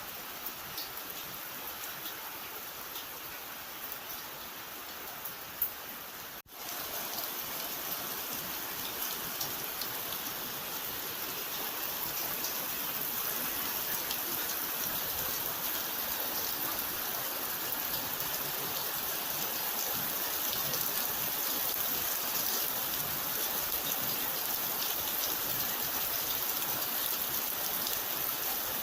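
Steady rain falling, a continuous hiss of drops. About six seconds in it cuts out for an instant and comes back louder and hissier, heavier rain.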